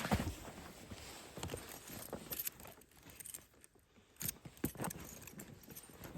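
Irregular metallic clinks and knocks with some rustling, like small metal gear being handled.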